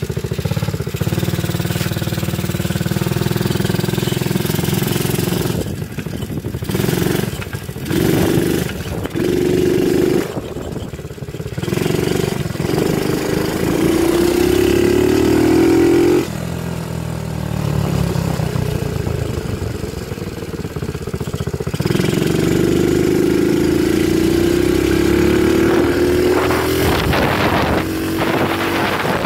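Dirt bike engine being ridden, revving and pulling through the gears: its pitch climbs steadily as it accelerates, twice for several seconds, with short drops where the throttle is let off.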